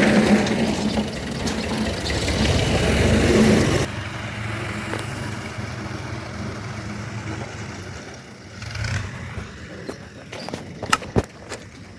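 Tractor engine running loudly, dropping suddenly to a fainter steady hum about four seconds in. A few sharp clicks or knocks near the end.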